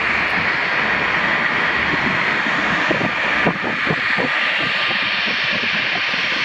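Airplane engine running loudly and steadily, a dense rushing noise with no clear pitch.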